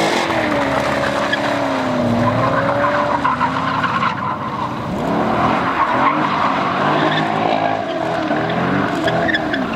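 A car spinning its tyres, the tyres squealing over the engine running at high revs, the pitch wavering up and down throughout.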